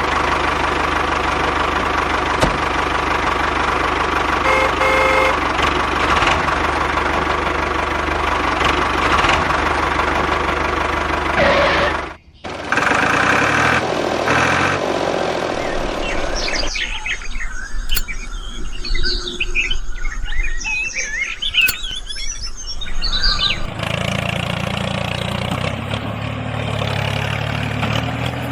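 Steady running of a small motor, likely a miniature tractor's, broken by an abrupt cut about twelve seconds in. In a quieter stretch midway, birds chirp, before a lower, steady engine hum returns near the end.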